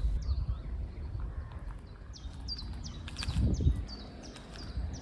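A small bird calling with short, high, falling chirps, about three a second, through the second half, over a low outdoor rumble.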